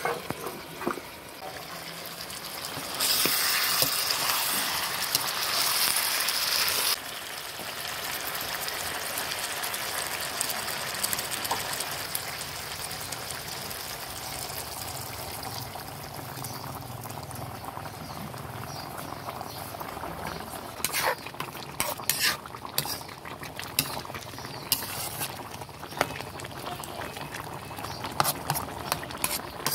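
Pork belly frying with a sizzle in a metal wok, with a loud burst of sizzling for about four seconds near the start. Hot water is then added and the pieces are stirred, a spatula clicking and scraping against the wok in the last several seconds.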